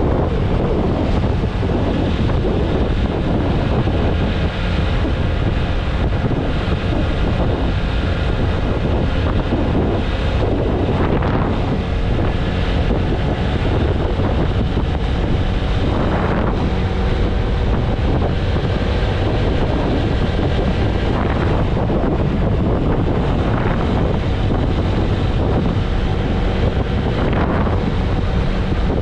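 Heavy wind rushing over the microphone of a TVS Apache RTR 160 4V motorcycle at highway speed, with the single-cylinder engine's steady hum underneath. The rush swells briefly several times.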